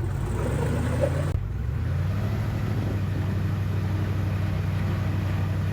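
Airboat engine and propeller running steadily with a low, even drone; about a second in, the drone steps to a slightly higher, steadier pitch.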